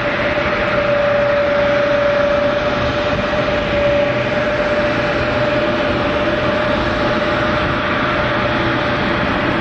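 Boeing 787-10 airliner's jet engines running, a steady rush of noise with one steady whine held through it.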